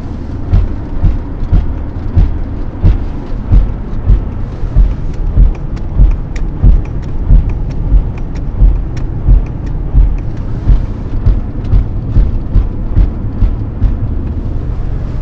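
Audi A6 C4 quattro drivetrain thumping under throttle, about two knocks a second over a steady low rumble; the owner puts it down to a bad rear differential.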